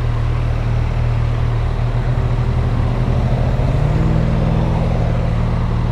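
Motorcycle engine running steadily while riding, with wind noise over the rider's microphone; the engine note rises a little about four seconds in as the bike picks up speed.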